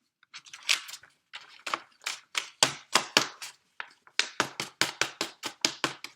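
A rapid series of short, scratchy strokes on paper, growing quicker, about four or five a second, in the second half.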